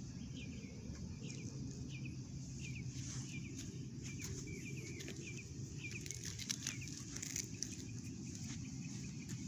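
A small bird chirping over and over, short high notes about twice a second, over a low steady outdoor rumble. A few crunches of footsteps on gravel come in the later part.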